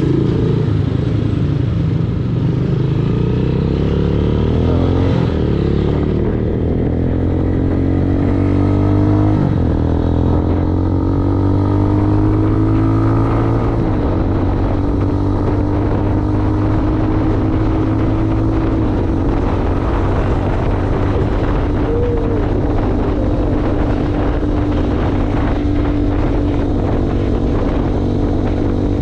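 Motorcycle engine accelerating through several gears, its pitch climbing and dropping back at each shift, then running at a steady cruise.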